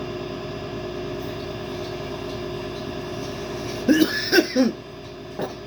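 A man coughing in three short, loud bursts about four seconds in, then once more faintly, over a steady background hum.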